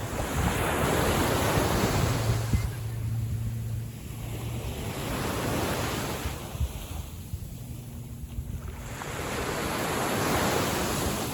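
Small waves on a calm sea, washing in and out in three slow swells, over a steady low hum.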